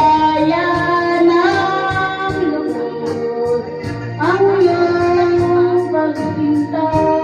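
A woman singing a slow Tagalog ballad, holding long notes with vibrato over a keyboard backing track with a steady ticking beat.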